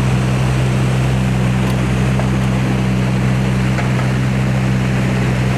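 Motorboat engine running at a steady speed with a constant low hum, over the wash of water and wind as the boat moves along.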